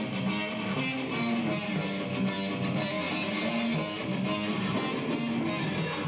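A rock band playing a take together in a recording studio, with electric guitars strumming over bass and drums.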